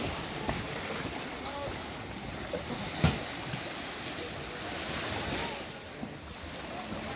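Wind buffeting the microphone and water rushing past a moving boat at sea, a steady noise with a single sharp knock about three seconds in.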